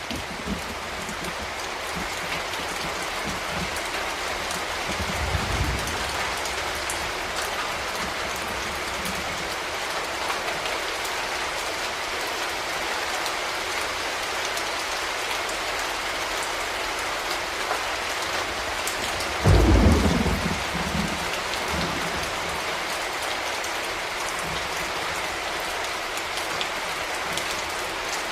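Steady heavy rain falling on a surface, with a low rumble of thunder about a fifth of the way in and a louder crack of thunder rolling off about two-thirds of the way through.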